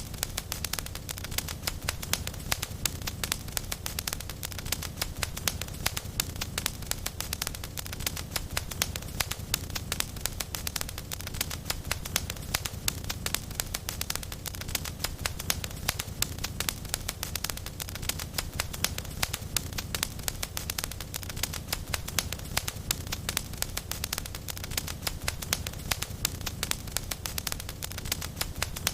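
Wood fire crackling in a fireplace: many irregular pops and snaps over a low steady rumble.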